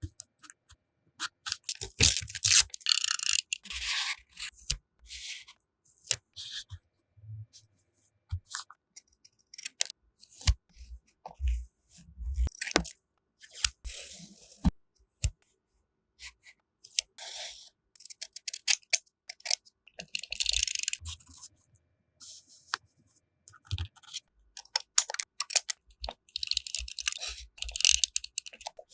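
Close-up paper-crafting sounds for scrapbooking: intermittent rustling and tearing of paper, with sharp little taps, snips and scrapes and short pauses in between.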